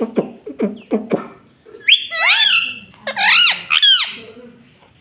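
Pet ring-necked parakeet calling. First comes a quick run of about five short, falling chirps, then loud warbling calls that rise and fall in pitch, around two seconds in and again twice between three and four seconds.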